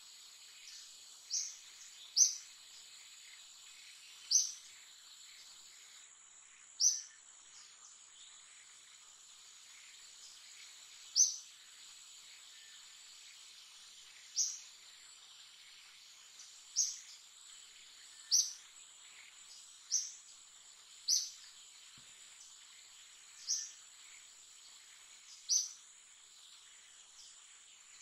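Forest ambience: a bird gives a short, sharp, high chirp again and again, about a dozen times at uneven gaps of one to four seconds. Under it runs the steady, high whine of insects.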